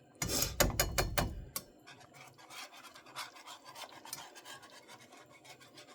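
A kitchen utensil scraping the inside of a container: a burst of clattering and knocking in the first second and a half, then repeated light, rapid scrapes.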